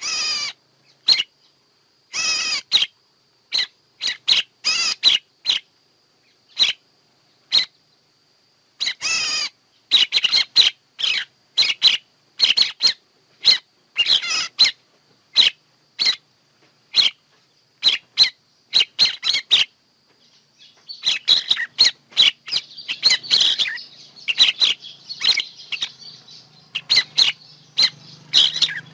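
Recorded birdsong used as a trapping lure: short chirping calls repeated again and again, growing faster, over a faint steady high tone. About two-thirds of the way in, a denser chorus of overlapping chirps and a low hum joins.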